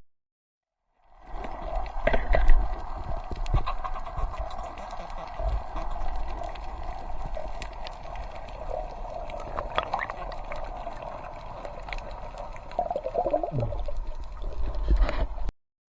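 Muffled, steady water noise with scattered clicks and knocks, starting and stopping abruptly.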